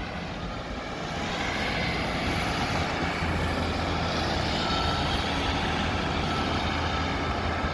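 Class 150 Sprinter diesel multiple unit pulling away, its Cummins underfloor diesel engines working harder about a second in and then holding a steady low drone.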